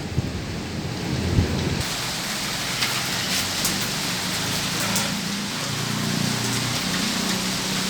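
Heavy rain falling steadily during a thunderstorm, with the low rumble of thunder dying away in the first two seconds and a few sharp ticks of drops hitting close by.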